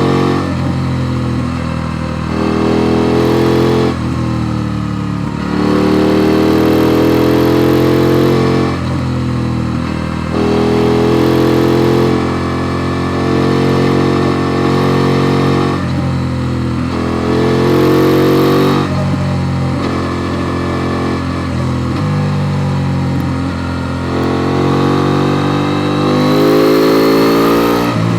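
KTM Duke 890 R's parallel-twin engine under way, the revs climbing and then dropping back again and again as the bike accelerates and the rider changes gear or rolls off the throttle.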